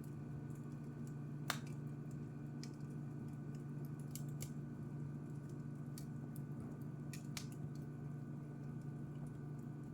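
Wood fire crackling: scattered sharp pops and snaps, the loudest about a second and a half in, over a steady low hum.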